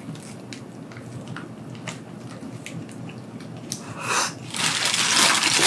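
Close-up mouth sounds of chewing a bite of a tonkatsu bagel sandwich: faint wet clicks. About four seconds in comes a rush of hissing noise lasting about a second.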